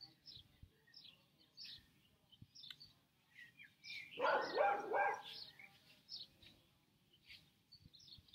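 Small birds chirping, short high calls repeating throughout, with one louder animal call lasting about a second roughly four seconds in.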